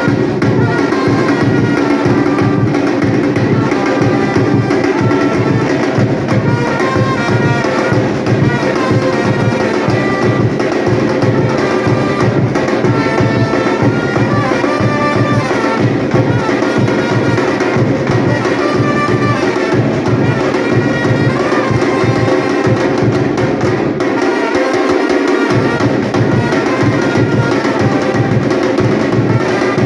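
Batucada percussion ensemble playing a dense, steady drum rhythm. The deep bass drums drop out briefly about three-quarters of the way through, then come back in.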